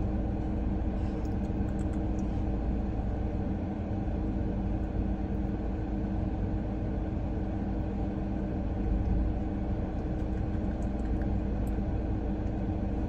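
Car engine idling, heard inside the cabin as a steady low hum and rumble that keeps the same pitch throughout.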